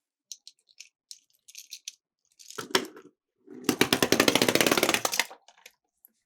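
Light clicks and taps of miniature toy cars, then a dense, rapid rattle lasting about a second and a half as a toy car runs down a slope.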